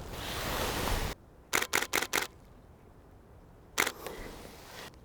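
Camera shutter firing a quick burst of four frames, then a single frame, as a heron takes off. A rushing hiss fills the first second and cuts off abruptly before the clicks.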